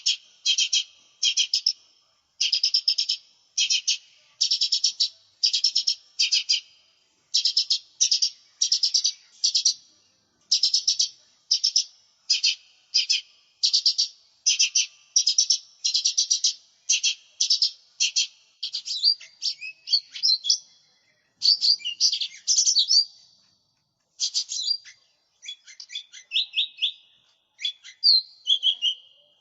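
Lesser green leafbird (cucak ijo mini) singing continuously. It gives a fast run of short, trilled phrases at about two a second, and in the last third shifts to more varied phrases with gliding notes.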